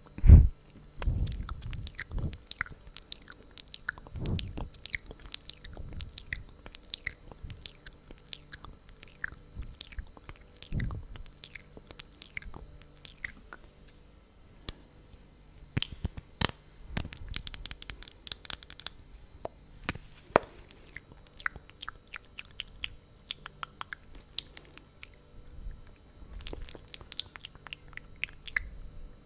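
Close-miked wet, sticky mouth sounds: lips coated in thick lip gloss smacking and parting in quick irregular clicks and snaps. A loud low thump comes about half a second in.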